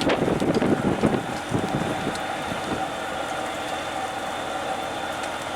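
Engine running steadily at an even pitch, with wind gusting on the microphone during the first second and a half.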